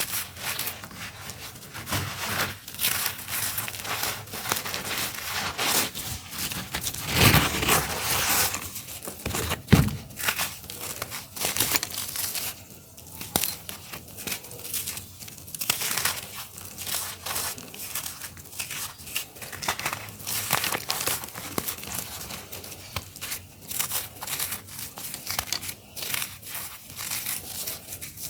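Dry, crunchy clumps of earthy dirt crumbling and crackling in dense, continuous crunches, with two heavier crunches about seven and ten seconds in.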